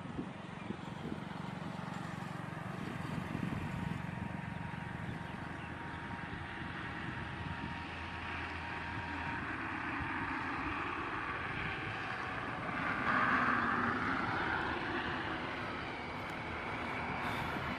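Boeing 737-800 jet airliner landing, its engine noise a steady rushing sound that swells for a few seconds about thirteen seconds in.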